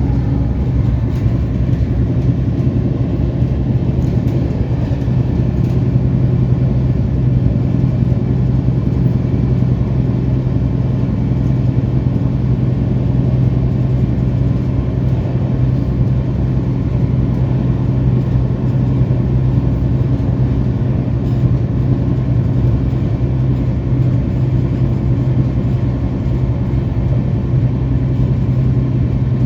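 Moving passenger train: a loud, steady rumble of the coach running on the track, unchanging throughout.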